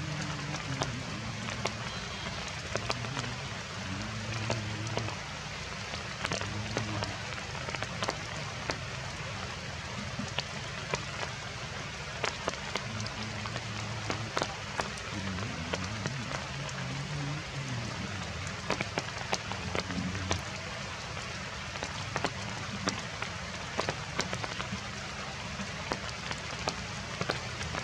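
Heavy rain falling steadily, with a constant hiss and many sharp ticks of drops striking nearby surfaces.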